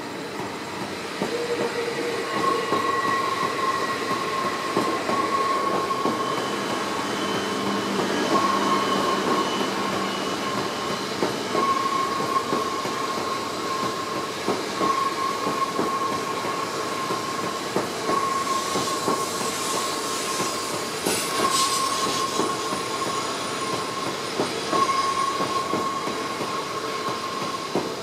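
E5 series Shinkansen cars rolling past at low speed: a steady running rumble with a thin high tone that breaks off and returns every second or two. A brief hiss rises over it a little past the middle.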